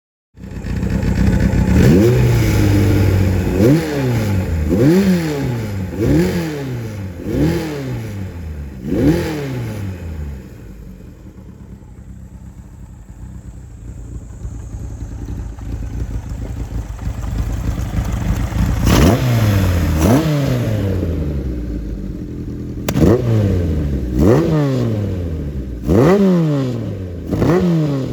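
1978 Kawasaki Z1-R's air-cooled inline-four revved through a steel megaphone exhaust in a string of quick throttle blips, each rising sharply in pitch and falling back. In the middle it settles to a steady idle for several seconds, then rises again into another run of blips.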